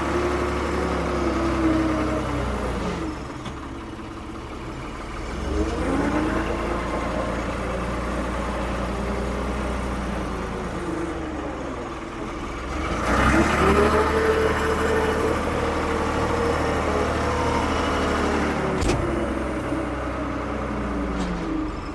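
Diesel engine of a 1975 Ford 550 backhoe revving up and dropping back again and again, as happens when its hydraulics are worked under load. There is a single knock near the end.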